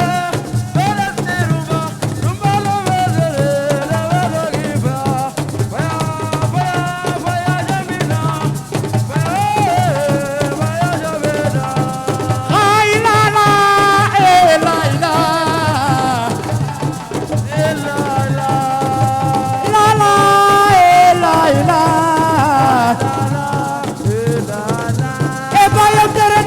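Assiko band music: a fast, steady beat of drums and shakers under a wavering melody line.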